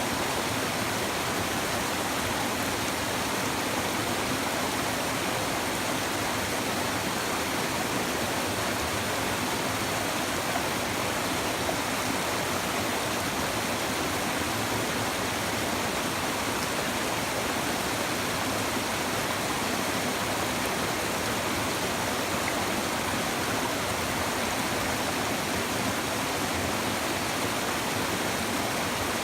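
Babbling river: water flowing in a steady, even rush with no breaks.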